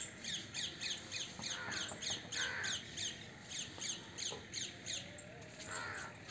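A bird calling in a fast, even series of short, high, falling chirps, about four a second, which stops about five seconds in.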